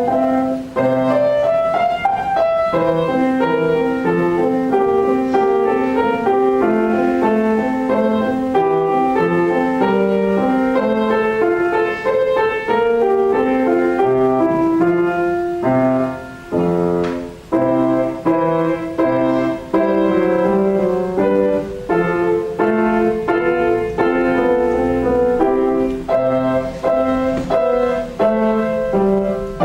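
Solo piano playing a classical piece, a continuous run of notes with a brief pause around the middle.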